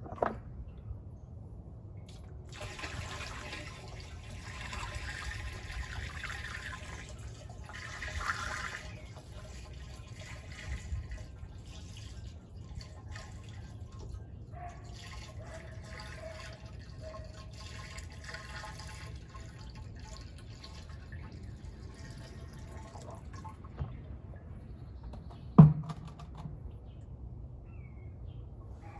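Water being poured from buckets into a plastic water barrel, a rushing splash that is strongest in the first third, then quieter trickling and dripping. A single sharp knock near the end.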